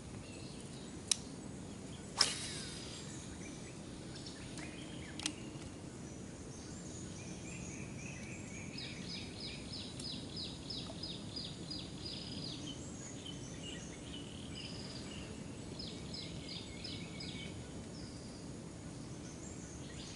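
Birds calling in quick runs of repeated high notes over a steady outdoor background hum. A few sharp clicks or knocks come in the first few seconds.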